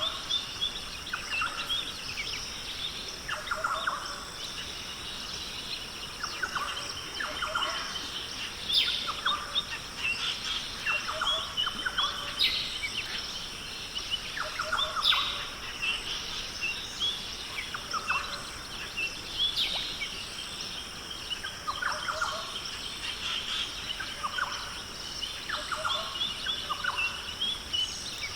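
Rainforest birds calling: many short chirps and quick falling calls repeat throughout, over a steady high-pitched hum.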